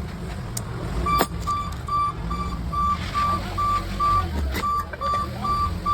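A series of evenly spaced electronic beeps, one steady pitch, about two and a half a second, starting about a second in, over a low rumble.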